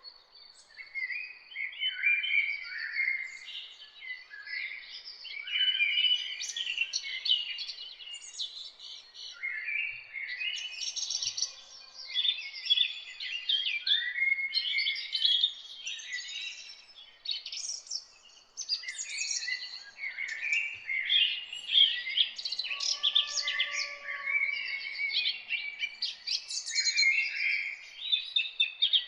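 Several songbirds singing and chirping at once in a dense, overlapping chorus of quick, high phrases, with a lower whistled call from another bird near the start and again about three-quarters of the way through.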